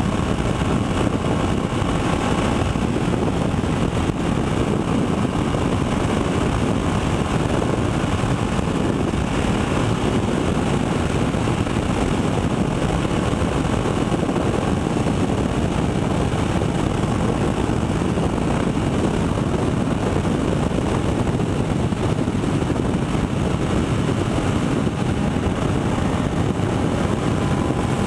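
Motorcycle engine noise, a steady dense rumble without clear revving or pauses.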